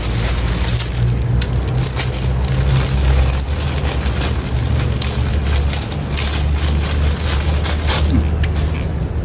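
Chewing food close to a clip-on microphone: many small wet crunches and clicks over a steady low rumble.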